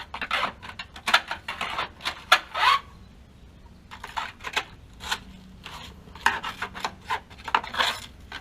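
A tool scraping, rubbing and clicking as it is worked into a gas water heater's jacket to pry up the insulation. The strokes are irregular, with a short lull near the middle.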